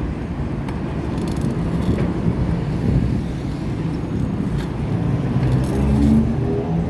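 Steady low rumble of outdoor road and traffic noise. A pitched hum like a passing vehicle's engine comes up in the last couple of seconds.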